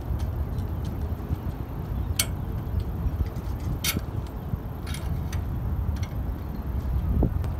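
Wind rumbling on the microphone, with scattered light clicks and ticks from fishing tackle handled at a metal railing. Two sharper clicks come about two and four seconds in.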